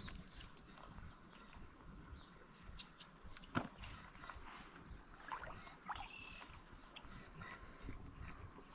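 Steady high-pitched chorus of insects, with scattered faint clicks and knocks, the loudest about three and a half seconds in.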